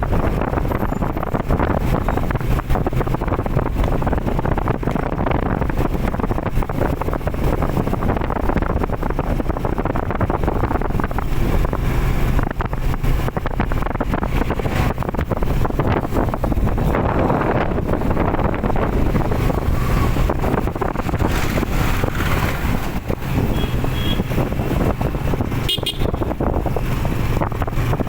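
Steady road traffic noise with a running engine's low hum, and a short vehicle horn toot near the end.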